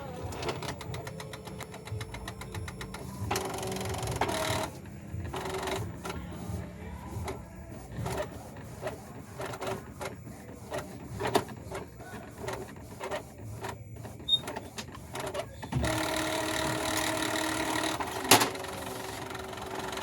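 Epson L3110 inkjet printer mechanism working: its motors whirr in stretches, with a run of irregular clicks and ticks in between and one sharp click near the end.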